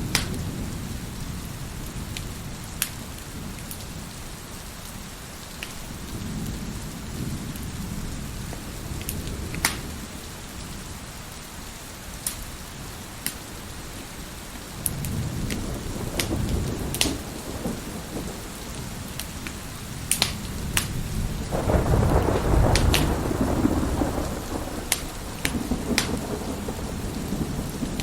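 Wood fire crackling with sharp, scattered pops over steady heavy rain, as thunder rolls in with a low rumble that builds about halfway through and is loudest a little after two-thirds of the way in.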